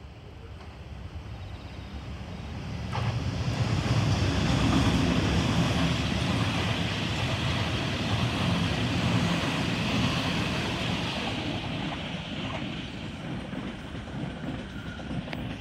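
Electric passenger train passing close by: a rumble of wheels on rail with a hiss over it. It builds over the first few seconds, holds, then fades away.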